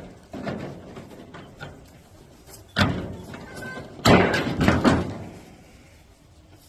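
Two loud bangs about a second apart, the second followed by about a second of clattering.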